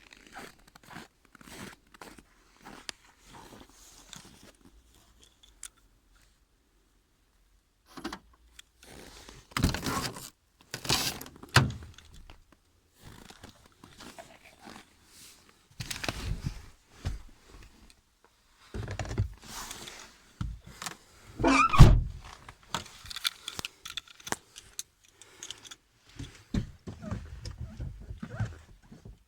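Handling noises: keys jangling, rustling and irregular thunks, with a heavy thud about twenty-two seconds in. No engine is running yet.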